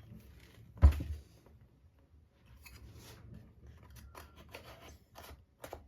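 A single sharp knock of a wooden kit part set down or tapped on the building board, then a run of light clicks and scraping as small wooden model-boat parts are handled and pressed into place.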